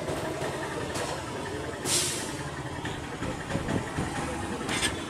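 EMU electric local train running toward the listener along the track, a steady rumble with a short sharp hiss about two seconds in and a smaller one near the end.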